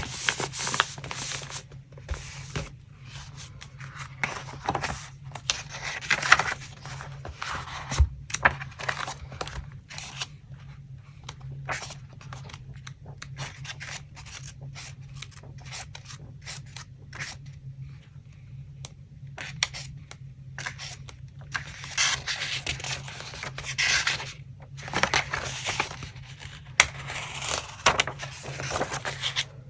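Paper being handled for a collage: irregular rustling and scraping of paper with short sharp strokes, sparse in the middle and busier in the last several seconds, over a faint steady low hum.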